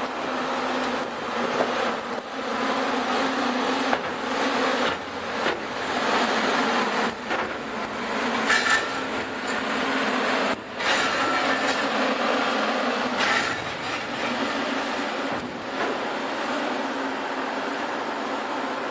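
Added sound effect of freight cars rolling along the rails: a continuous rumble with scattered metallic clanks and a couple of short high-pitched squeals around the middle.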